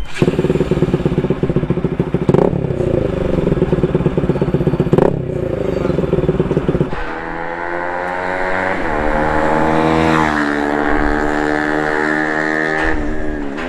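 Bajaj Pulsar NS200's single-cylinder engine being ridden hard, revving with two short breaks about two and five seconds in. It then settles into a smoother, steady note that climbs a little and drops near the end.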